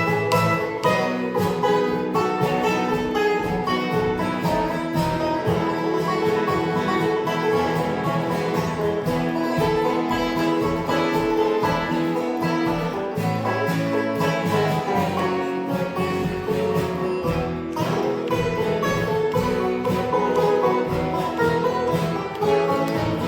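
Acoustic string band playing old-time mountain music live, with steady picked strings throughout.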